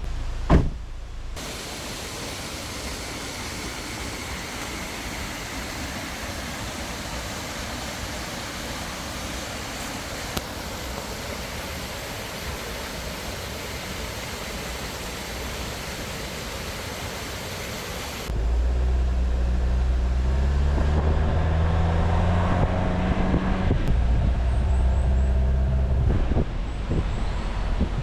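A steady rushing hiss, then about eighteen seconds in a vehicle engine takes over, louder, its pitch climbing in steps as it accelerates through the gears: a Jeep Wrangler driving.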